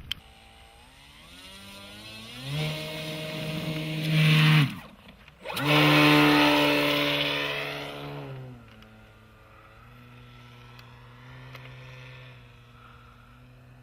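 RC Cessna Skyline model plane's motor and propeller. The throttle is run up to a loud, steady whine, cuts out for about a second around the middle, then comes back loud. It then eases down to a lower, quieter drone for the rest of the time.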